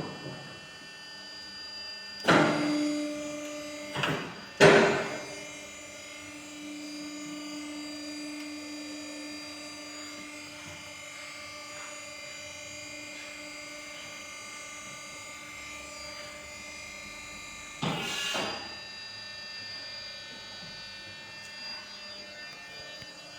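Truck tyre changer's electric motor humming steadily, broken by loud metal clanks: one a little after two seconds in, two close together between four and five seconds, and another near eighteen seconds.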